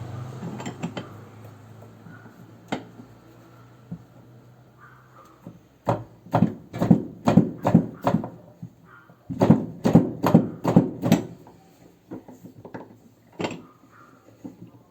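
Two runs of quick knocks on a hard object, about six strikes each at roughly three a second, after a low hum fades out in the first two seconds.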